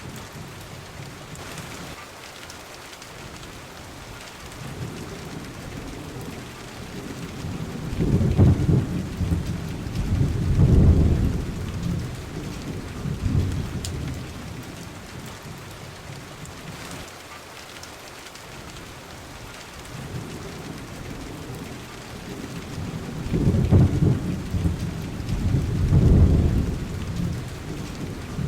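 Steady rain falling, with rolling thunder that rumbles up twice in long deep swells: once about a third of the way in and again near the end.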